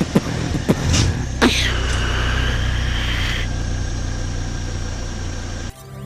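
Ford Kuga's 2.5-litre five-cylinder engine running at low revs as the SUV creeps up onto car ramps, with a few knocks in the first second and a half and a high squeal that holds steady for about two seconds. Music cuts in near the end.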